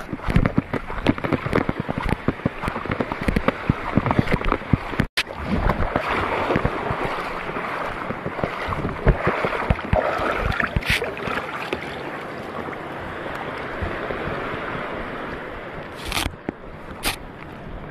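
Quick, irregular footsteps of someone walking, cut off suddenly about five seconds in; then a steady rush of wind and water, with two short knocks near the end.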